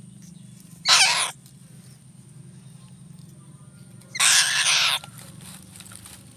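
Eagle giving two harsh screaming calls, a short one about a second in and a longer one just past the middle, over a steady low hum.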